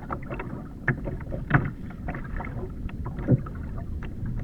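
Sounds aboard a sit-on-top kayak at sea: a steady low wash of water and wind, with three sharp knocks on the hull, one about a second in, one at about a second and a half and one near three seconds.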